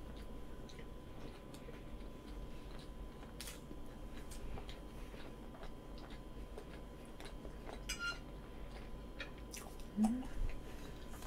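Soft, quiet chewing of roll cake with small wet mouth clicks. About eight seconds in, a metal fork lands on a dish with a short ring, and near the end a brief rising vocal sound.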